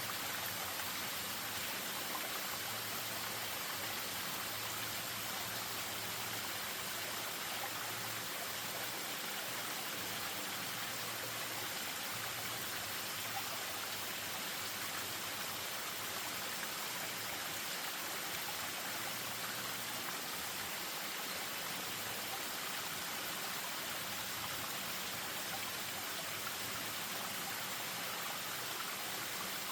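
Spring-fed stream and small waterfall running, a steady rush of water.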